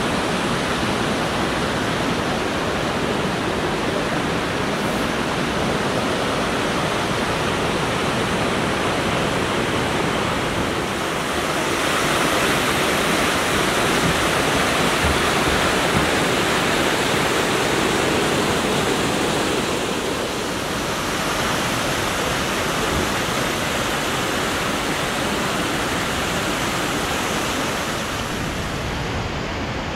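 Water of the Maligne River rushing through the narrow canyon gorge: a steady, loud rush that swells for several seconds in the middle and eases slightly near the end.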